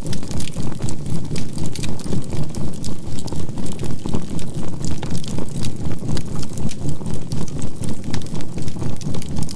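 Synthesised healing tones, a 528 Hz tone with a low binaural-beat drone, pulsing evenly about four times a second, over the crackling and popping of a burning charcoal fire.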